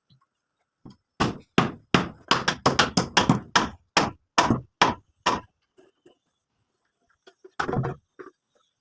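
Hammer blows: a quick run of strikes at about four a second for roughly four seconds, a pause, then a few more strikes near the end.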